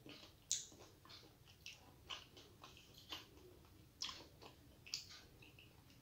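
Quiet chewing and lip smacks while eating fish by hand: a scattered series of short wet clicks, the sharpest about half a second in and again around four and five seconds.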